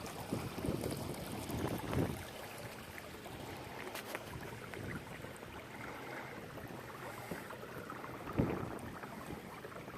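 Water sloshing and splashing against a kayak hull in irregular surges, with wind noise on the microphone.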